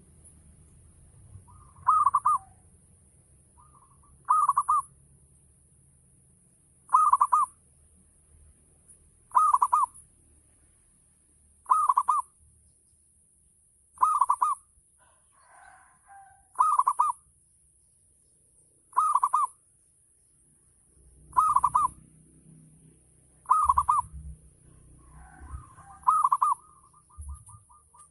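Zebra dove (perkutut) cooing: a short phrase repeated evenly about every two and a half seconds, eleven times.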